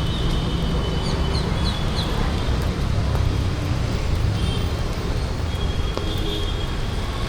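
Street traffic: a steady low rumble of vehicles, with a few short high chirps between about one and two seconds in.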